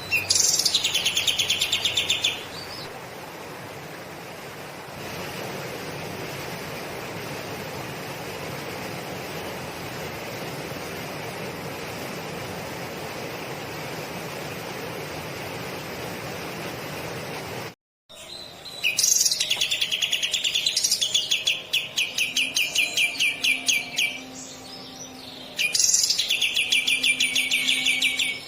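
A kapas tembak songbird giving long, rapid, chattering trills in the lovebird 'ngekek' style: a short trill at the start, then after a long stretch of steady hiss, two long rolls near the end. The sound drops out abruptly for a moment just before the later trills.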